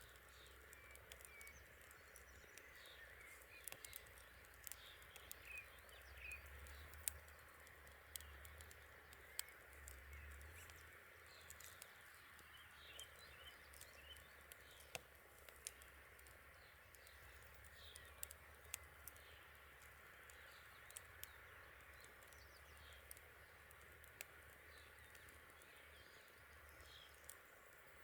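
Campfire crackling, with irregular sharp pops and snaps from the burning wood, and faint bird chirps.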